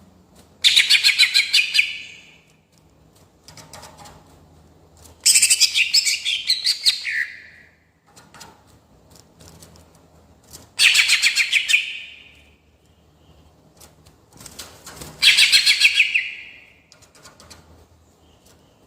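Greater green leafbird (cucak ijo) singing four loud, fast rolling trills of rapidly repeated high notes, each about one and a half to two seconds long and roughly five seconds apart, the second dropping in pitch at its end.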